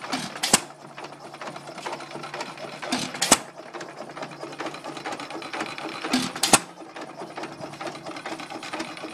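1922 Associated Chore Boy 1 3/4 HP single-cylinder hit-and-miss engine running under governor control: a sharp bang as it fires, three times about three seconds apart, with a steady mechanical clatter while it coasts between firings.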